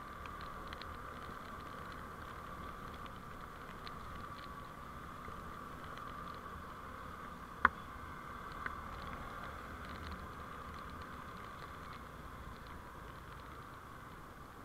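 Steady vehicle driving noise as picked up by a dashcam, with a sharp click about halfway through and a fainter one a second later.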